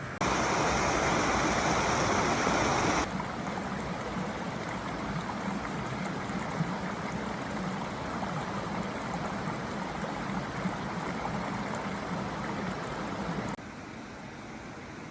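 Stream water flowing and rushing steadily. It is loudest in the first three seconds, then drops suddenly to a lower, steady wash, and drops again abruptly near the end.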